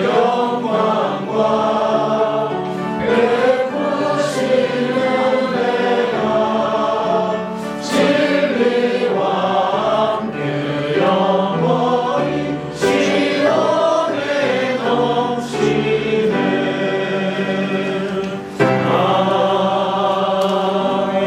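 Church congregation singing a hymn together, line by line with brief breaths between phrases.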